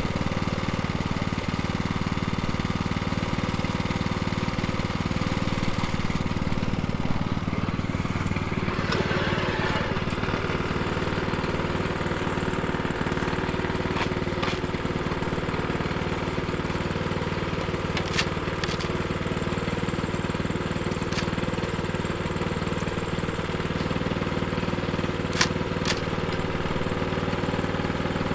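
Plate compactor's small engine idling steadily, with a few sharp clicks now and then.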